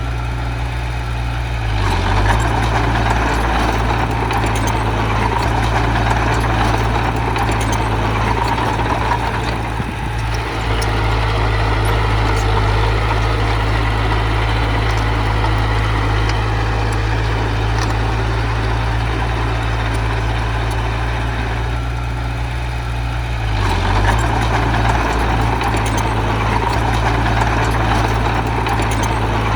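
Diesel engine of heavy earthmoving machinery running continuously, its note swelling and easing several times: louder about two seconds in and again near the end, with brief dips in between.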